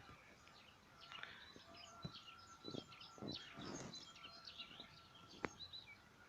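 Faint birdsong, with many small birds chirping and twittering. A few soft knocks and a sharp click come about five and a half seconds in.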